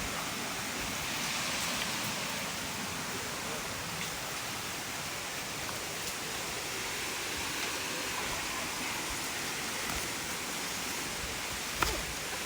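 Steady rush of running water from a rainforest stream, with one sharp knock near the end.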